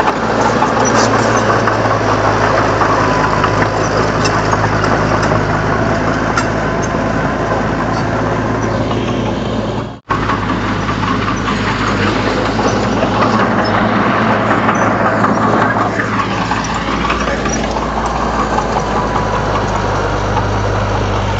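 Komatsu D31 crawler bulldozer's diesel engine running steadily under work. The sound cuts out for an instant about halfway through, then carries on.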